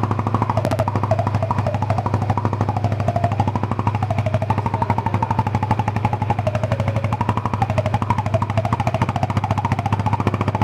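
Yamaha Vixion motorcycle's single-cylinder engine idling steadily through its exhaust, a rapid even train of firing pulses. A tone wavers slowly up and down over it.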